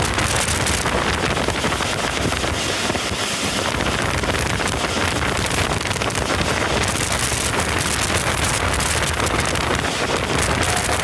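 Train running fast past the microphone: a steady, loud rushing noise of the moving train, with wind buffeting the microphone.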